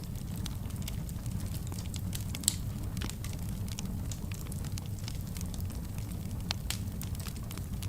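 Fireplace fire crackling: a steady low rumble of flames with many small sharp pops, and one louder pop about two and a half seconds in.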